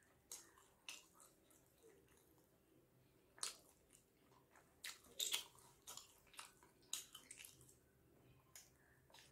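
Faint wet chewing of soft steamed chicken momos, with scattered mouth clicks and smacks, a few sharper ones around the middle.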